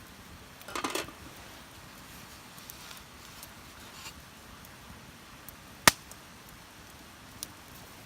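A brief clatter about a second in, then sparse light ticks and one sharp snap a little before six seconds, with a smaller click near the end.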